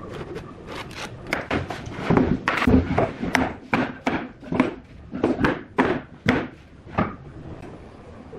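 An irregular series of sharp wooden knocks, two or three a second, some heavier with a dull low thud, stopping about seven seconds in.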